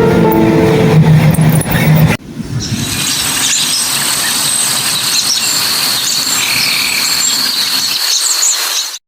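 Background music stops abruptly about two seconds in. Outdoor ambience follows: a steady hiss with a thin, high-pitched whine and a few short chirps, cut off suddenly near the end.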